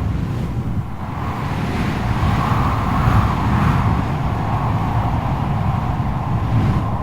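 Strong wind blowing hard: a heavy low rumble under a hollow howling tone that swells and eases a few seconds in.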